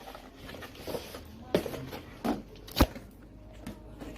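Objects and packaging being handled: a few sharp knocks and clicks, the loudest nearly three seconds in, over a low steady rumble.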